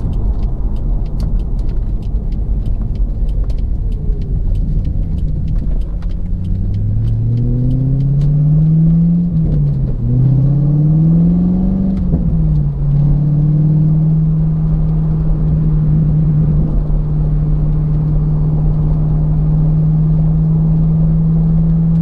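C5 Corvette's LS1 V8 heard from inside the cabin while driving. Over low road rumble with scattered light ticks, the engine note climbs steadily from about six seconds in, drops at a manual upshift, climbs again, drops at a second upshift near thirteen seconds, and then holds steady at cruise.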